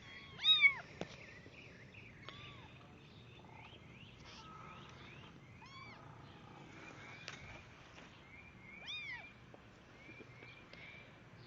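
Young kittens meowing: one loud meow right at the start, then softer meows every few seconds. Faint, high, repeated chirps go on in the background.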